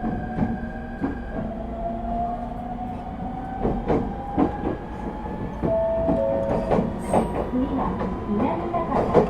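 Echigo TOKImeki Railway ET127 series electric train running, its Toyo IGBT-VVVF inverter and traction motor whine rising slowly and steadily in pitch as the train picks up speed. Wheel clicks over the rail joints come more and more often toward the end.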